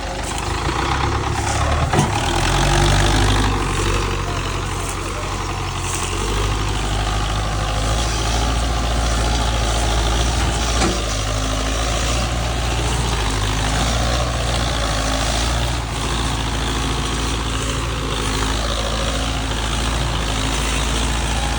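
Belarus 520 tractor's diesel engine running steadily at a low drone under heavy load.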